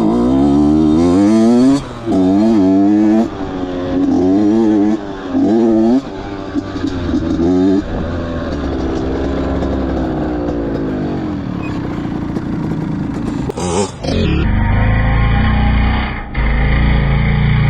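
Dirt bike engine revving up and shifting, its pitch climbing and dropping several times in a row, then running more steadily. About fourteen seconds in the sound changes abruptly to a steadier, deeper rumble.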